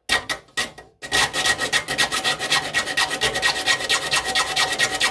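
Triangular saw file rasping across a hand saw's teeth in short, fast strokes, a few single strokes first and then a quick steady run of about nine a second from about a second in, with a high steady ring through it.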